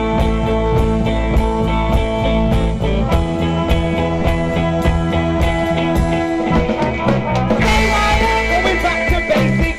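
Live rock band playing an instrumental passage with guitar and a steady drum beat, the sound picking up and brightening about three-quarters of the way through.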